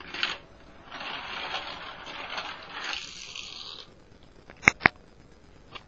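Toy die-cast car rolling down a plastic spiral track: a steady rushing rattle lasting about three seconds, then two sharp clicks close together about a second later.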